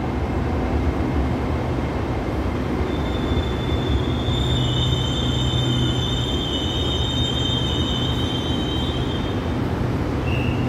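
SRT Red Line electric commuter train pulling into the platform and slowing, with a steady low running hum. From about three seconds in, a high wheel-and-brake squeal sounds as it slows, fading out around nine seconds.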